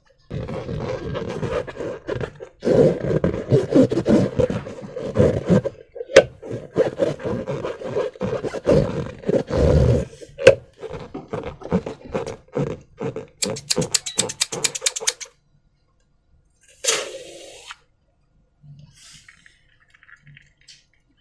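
Slime and rubber balloons being squeezed and worked by hand: wet squelching and crackling with many small pops, a quick run of evenly spaced pops near the end of the handling, which stops about 15 s in. A short squish follows a little later, then only faint handling.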